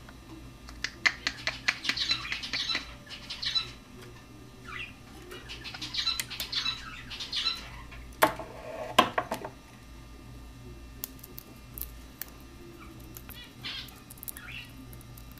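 Cockatiel making short chirping squawks in clusters, mixed with quick clicks and taps, with two loud sharp knocks that ring briefly a little past the middle.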